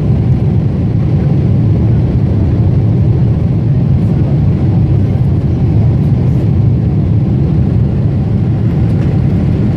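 Steady, loud cabin rumble heard inside a Boeing 747-8 airliner: its four GEnx-2B turbofan engines and the airflow over the fuselage making a deep, even roar with no change in pitch.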